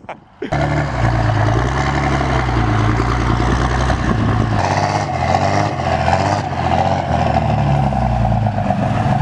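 Pickup truck engine running steadily with a low rumble, its tone shifting slightly about halfway through.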